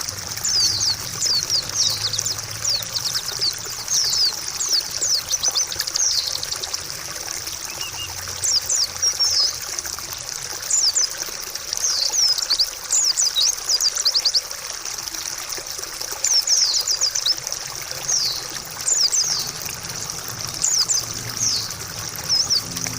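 Water trickling steadily while white-eye birds give quick, high chirps and twitters in repeated clusters.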